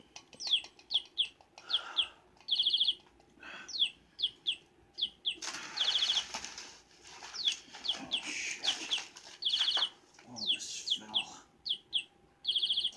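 Battery-operated toy budgie chirping over and over: quick falling chirps broken every few seconds by a short, buzzy electronic trill. A burst of rustling comes about halfway through.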